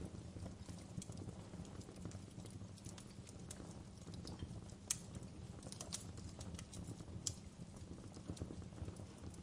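Wood fire crackling in a fireplace: irregular sharp pops and snaps, the loudest about halfway through, over a low steady rumble.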